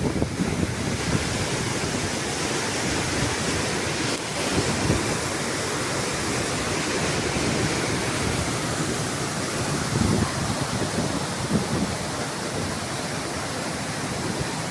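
Waterfall's rushing water, a steady even rush of noise, with occasional low buffets of wind on the microphone.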